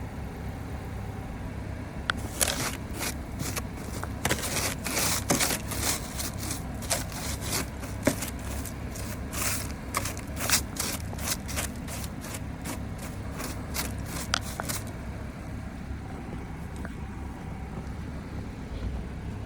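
Quick, irregular scraping strokes clearing ice off a car, over the low steady hum of the car's idling engine. The strokes start about two seconds in and stop about two-thirds of the way through.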